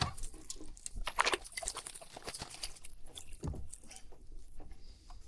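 Close, irregular crunching and rustling with scattered clicks, and a low thump about three and a half seconds in.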